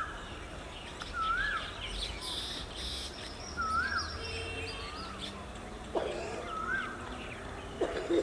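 Birds calling: one repeats a short rising-then-falling note about every second or so, mixed with scattered higher chirps, over a faint low rumble.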